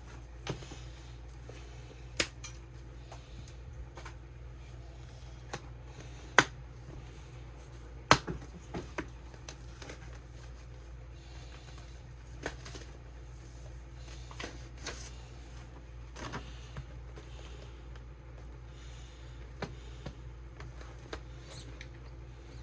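Hard plastic storage containers clicking and tapping as they are handled, single sharp clicks spaced irregularly a second or more apart, the loudest two about a third of the way in. A steady low hum runs underneath.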